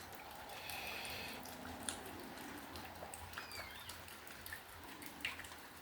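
Quiet outdoor background of light rain drips, with a few scattered ticks and two faint bird calls: one held for under a second early on and a short gliding one about three seconds in.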